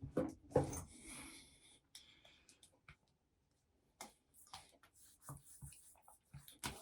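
Small handling sounds: separate sharp clicks and knocks, with a short stretch of rustling near the start.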